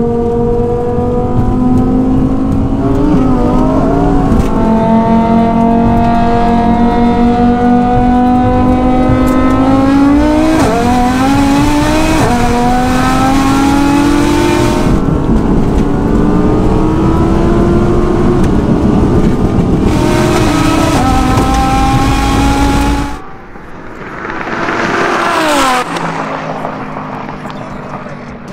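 A twin-turbo Audi R8 V10 and a built Audi TT RS five-cylinder accelerating flat out in a roll race, heard from inside the cabins: the engine notes climb steadily through the gears, dropping at each of several upshifts. About 23 seconds in the sound cuts to the trackside, quieter, as the cars pass at speed with a pitch that rises and then falls.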